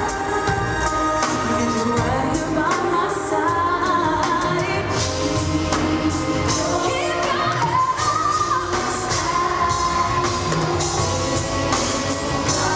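Live performance of a gospel ballad: singing in long, sliding melodic lines over full band accompaniment.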